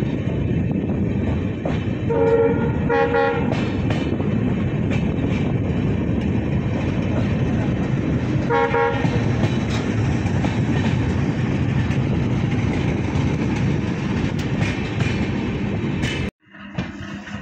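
Indian Railways passenger train running on the track with a steady rumble and rail clatter, its horn sounding two short blasts about two to three seconds in and a third near nine seconds. The sound cuts off suddenly near the end.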